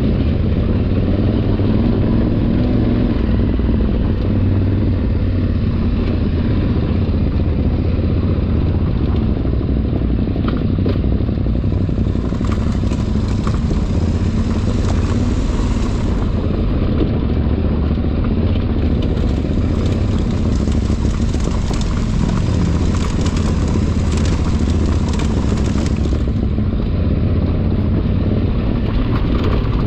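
Adventure motorcycle engine running steadily while riding off-road, with wind and rattle. Twice the hiss and clatter grows louder: from about twelve to sixteen seconds in, and again from about nineteen to twenty-six seconds.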